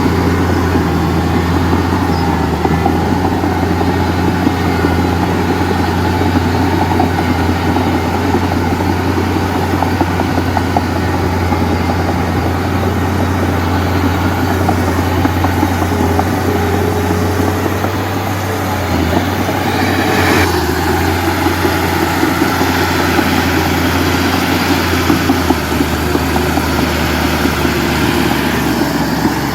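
Heavy diesel engine running steadily with a deep, even hum, with a brief rising whine about two-thirds of the way through.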